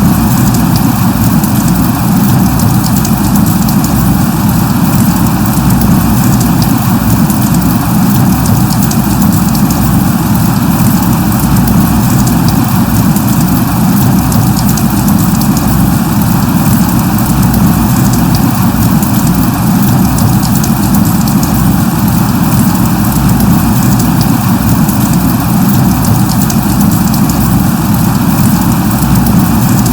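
Steady rain falling, an even rushing hiss with a strong deep rumble beneath it and scattered faint drop ticks.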